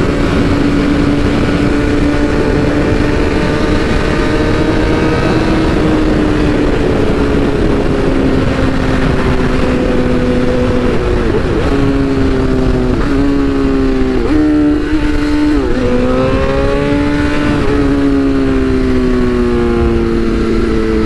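BMW S1000RR's inline-four engine running hard at speed with wind noise, holding a steady note, then about halfway through four quick gear changes in a row, each a sharp dip in pitch and a climb back, before the note rises and slowly falls again.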